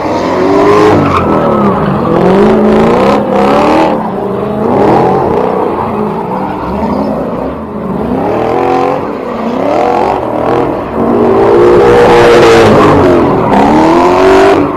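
A BMW E30's engine is revved hard again and again, its pitch climbing and dropping every second or two.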